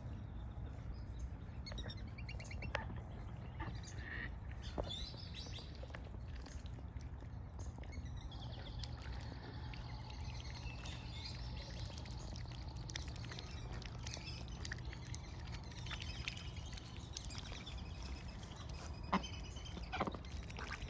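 Faint bird chirps and calls over a steady low outdoor rumble, with a few sharp clicks or taps, the loudest near the end.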